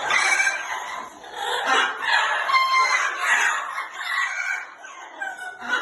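Several birds calling over one another, a dense run of short overlapping calls and squawks.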